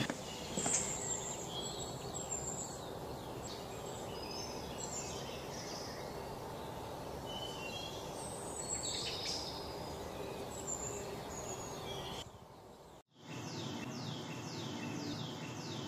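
Outdoor ambience of a steady low background rush with scattered short bird chirps. About twelve seconds in it drops out briefly, then comes back with a quick series of short falling chirps, several a second.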